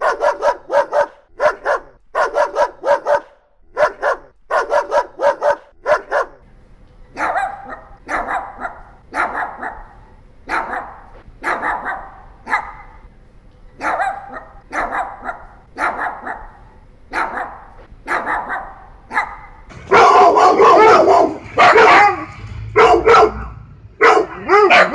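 Dogs barking over and over: quick short barks at first, then a steadier run of single barks, and a louder, denser bout of barking starting about twenty seconds in.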